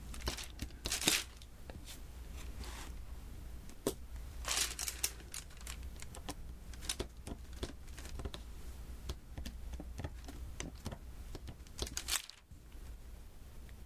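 Diamond-painting work: a run of small sharp clicks and taps as resin drills are pressed onto the sticky adhesive canvas. Short crinkling, rustling bursts come a few times.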